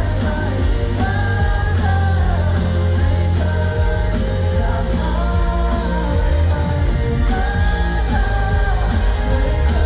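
Thai pop-rock band playing a ballad live, with a sung melody over a steady bass and drums.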